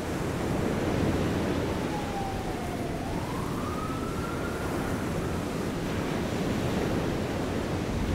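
Steady rush of ocean surf and wind. A single faint siren wail dips and then rises once, from about two to five seconds in.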